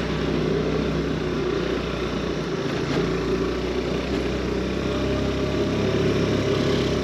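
Motor scooter engine running steadily under way, with a continuous rush of road noise.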